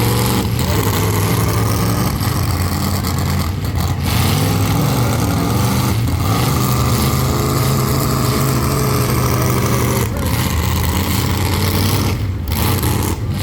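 Several full-size demolition derby cars' engines running loudly together, their pitches overlapping and rising and falling as they rev.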